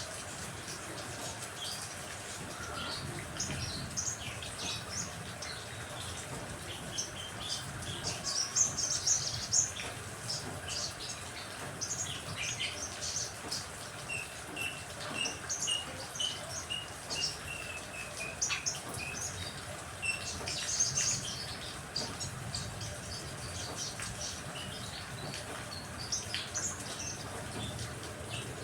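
Songbirds chirping and calling busily over a steady hiss of rain. Between about 14 and 18 seconds one bird gives a run of short, even notes that fall slightly in pitch.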